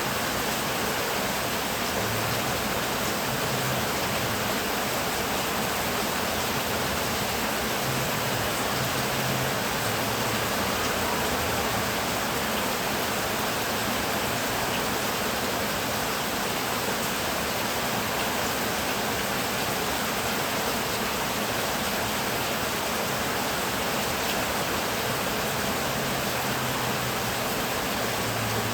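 Heavy rain falling in a steady, even hiss, with no break and no thunderclap.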